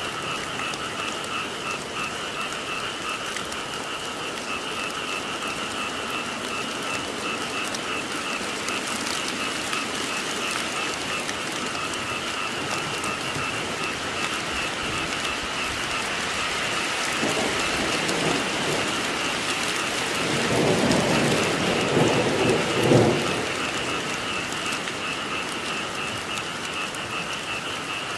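Steady rainfall with a frog chorus trilling over it in two steady pitched bands. A low roll of thunder swells past the middle, peaks about two-thirds of the way through, then fades back under the rain.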